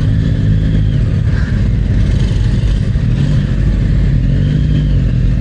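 Yamaha MT-09's three-cylinder motorcycle engine running at low speed in slow, stop-and-go traffic, a steady rumble with a couple of small rises in revs.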